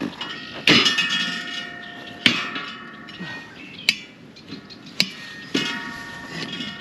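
Hammer striking steel in about five hard blows, each leaving a metallic ring; the first blow is the loudest. The hammering is aimed at breaking loose the stuck nuts on a gang bolt.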